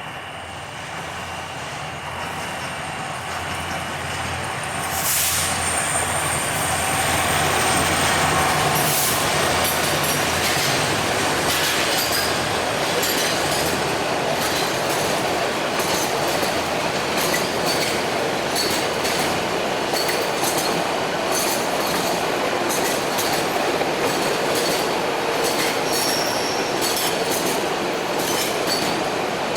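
Diesel locomotive engine hum swelling as it draws close and passes in the first several seconds, followed by a long metre-gauge container train rolling by. The wagons' wheels clatter steadily over the rail joints, with some squeal.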